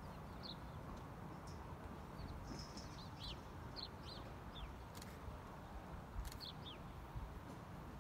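Small birds chirping: short, high calls scattered through, over a steady low rumble.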